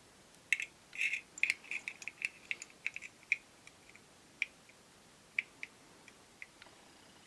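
Light, sharp clicks and taps of small hard parts being handled, in a quick irregular run for the first few seconds, then single clicks spaced out through the rest.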